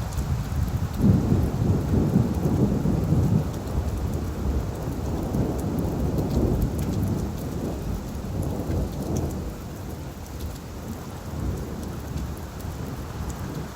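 Steady rain falling on leaves, with a low rolling rumble of thunder that swells about a second in and slowly fades away toward the end.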